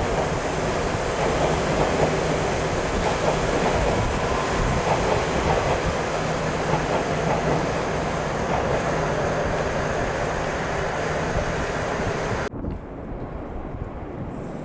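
Tobu Skytree Line train running along the track, loud. The sound cuts off suddenly near the end and gives way to quieter background noise.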